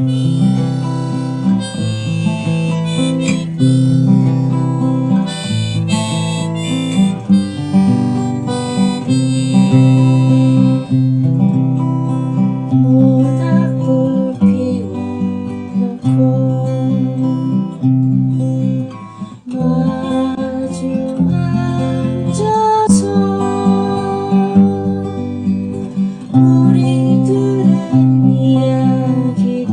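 Acoustic guitar accompaniment with a harmonica playing the melody: an instrumental introduction with no singing.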